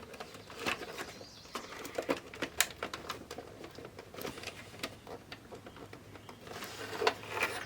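A screwdriver working a long screw out of a boombox's plastic case, making irregular small clicks and scrapes.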